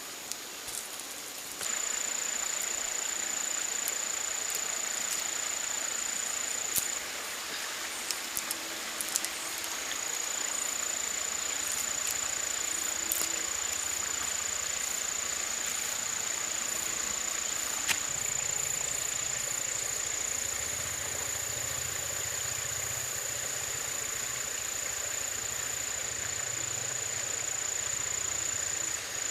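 Steady outdoor ambience dominated by a continuous high-pitched insect drone, with a few scattered clicks and knocks.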